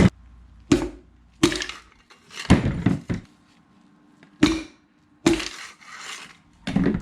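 A series of sharp knocks, roughly one a second, each with a short ring, as pistons are tapped down through the ring compressor into the cylinder bores of a Ford 5.4L 3V V8 block.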